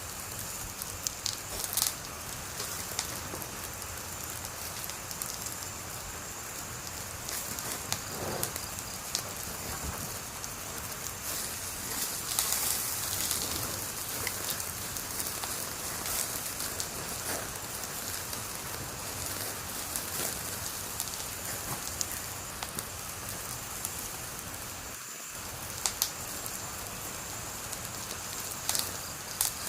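Wood fire burning and crackling: a steady hiss with scattered sharp pops, a few louder ones near the start and near the end.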